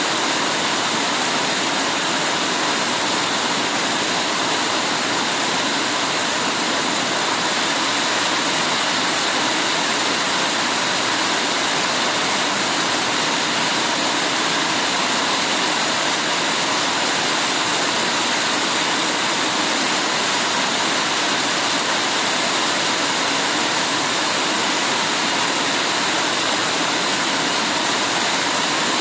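Heavy rain falling steadily: a dense, even hiss with no single drops standing out and no change in strength.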